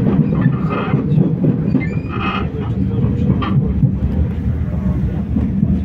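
Passenger train running, heard from inside the carriage: a steady low rumble of wheels on the track.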